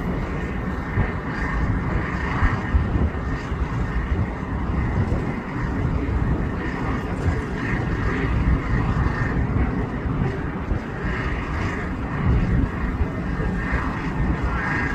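Wind buffeting the microphone: a continuous low rumble that surges and drops unevenly.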